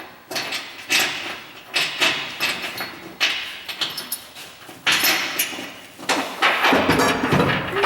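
Repeated knocks and scrapes, roughly one a second, from hands-on work fitting a car body onto its frame. The knocks grow busier near the end.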